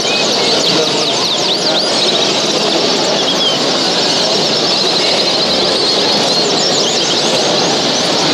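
Many caged show birds chirping and singing at once, a dense scatter of quick high chirps and short whistles over a steady din of hall noise.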